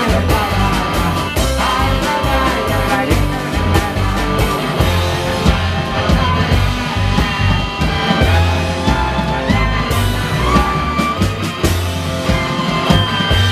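Live band music from a klezmer-style Yiddish punk-cabaret group: double bass, drums, clarinet and accordion playing a loud, busy number with a strong bass line and steady drum beat.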